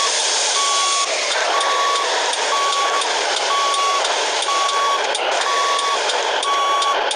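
Truck reversing alarm beeping, one steady-pitched beep about every second, over a loud, steady rushing noise.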